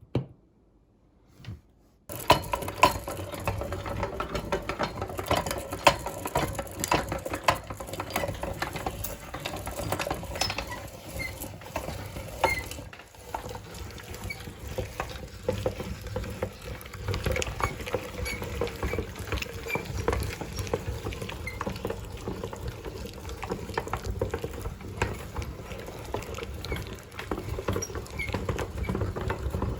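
Meat grinder working ice cream through, a dense run of crackling, squishing and clicking that starts suddenly about two seconds in and keeps going, after two single clicks.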